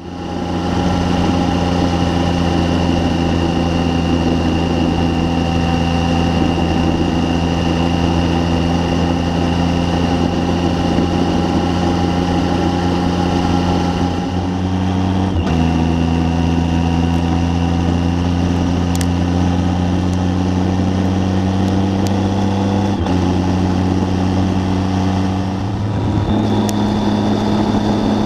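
Triumph Tiger 800's three-cylinder engine running under way, its steady note climbing slowly, with short breaks for gear changes about halfway through, again about two-thirds through and near the end.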